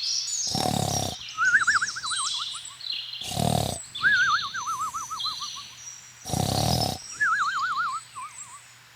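Three short animal roars about three seconds apart, each followed by a wobbling, falling whistle like a bird call, with high chirps in between.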